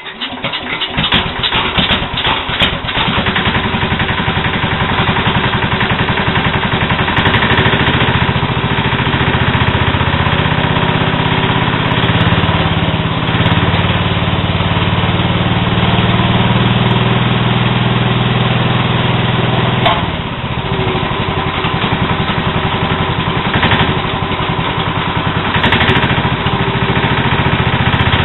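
1970 Sears Suburban SS12 garden tractor's Tecumseh single-cylinder engine catching and running steadily, with the knock that still remains after its rebuild. The engine speed sags briefly about twenty seconds in.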